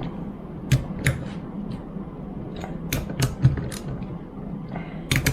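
Irregular sharp clicks and knocks of hand tools and metal pump parts being handled during reassembly of a power steering pump, about a dozen in all, over a steady low hum.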